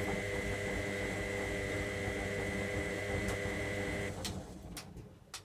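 Electra AWF683 washing machine running with a steady whine and hum, which stops about four seconds in, followed by a few sharp clicks.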